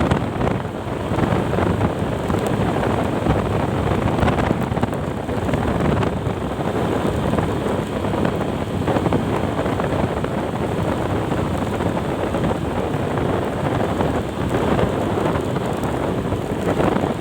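Steady wind rumble on the microphone of a moving vehicle, with road and rain noise mixed in.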